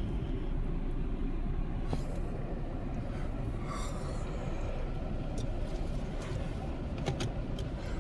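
Steady low rumble of a car driving, engine and tyre noise, with a few light clicks near the end.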